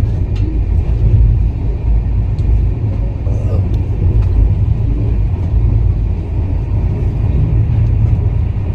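A loud, steady low rumble with faint voices about three and a half seconds in.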